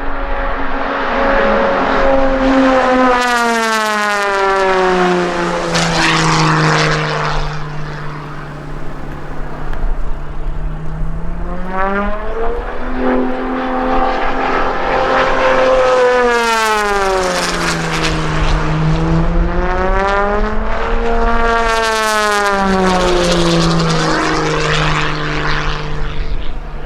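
Aerobatic propeller plane's engine and propeller during a display flight. The pitch slides down as it passes, rises again around the middle and falls, then swings up and down once more over the later part.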